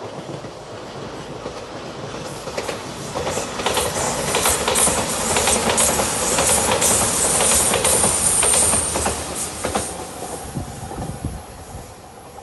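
Five-car Shiokaze limited express train passing over a level crossing. Its rumble builds over the first few seconds, peaks in the middle with quick clatter of wheels over rail joints and a high hiss, then fades near the end.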